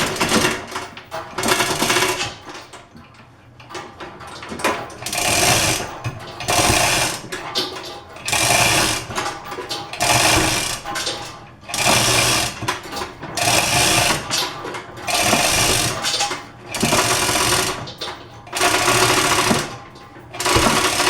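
A jack being pumped to raise a drill press head: a repeated mechanical stroke noise, about one stroke every one and a half to two seconds.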